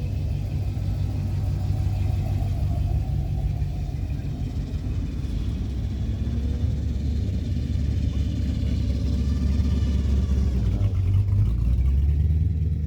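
Car engine running at low revs with a deep, steady rumble; its pitch shifts about eleven seconds in.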